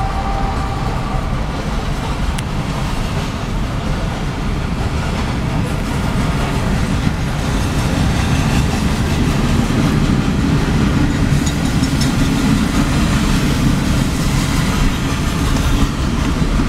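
Union Pacific freight train with EMD SD70-class diesel locomotives passing: a steady rumble of engines and rolling cars that grows louder about halfway through. A two-note horn chord fades out in the first second.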